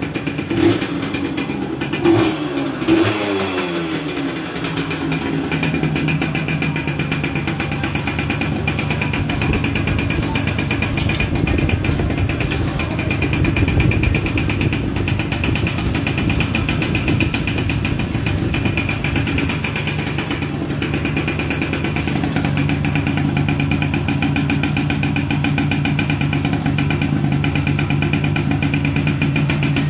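Yamaha Yaz two-stroke motorcycle engine running, revved briefly a few times in the first four seconds with the pitch falling back each time, then idling steadily.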